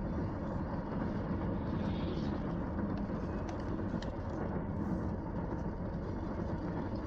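Steady road and engine noise inside a car cabin, driving on a wet road in the rain, with a few faint ticks.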